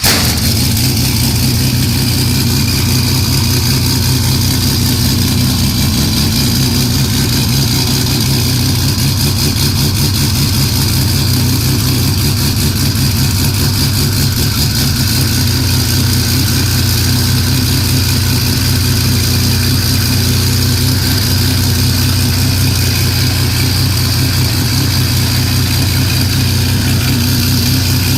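JGTC Pennzoil NISMO GT-R race car engine idling steadily and loudly, just after being started.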